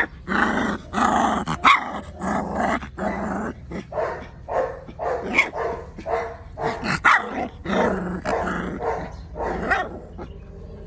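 Tibetan mastiff barking and growling in a quick string of barks, about two a second, that stops shortly before the end.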